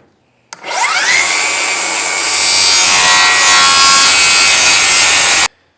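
Electric saw motor starting up with a quickly rising whine, then cutting through plywood sheet stock with a loud, steady cutting noise that cuts off suddenly near the end.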